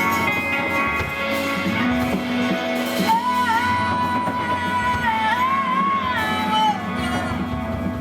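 Live band music with a woman singing: from about three seconds in she holds one long high note that bends up and down before falling away near the end, over guitar accompaniment.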